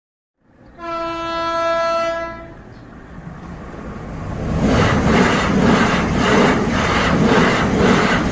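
Train horn sounding one long steady note, then a train rolling by, growing louder, its wheels clacking over rail joints about twice a second.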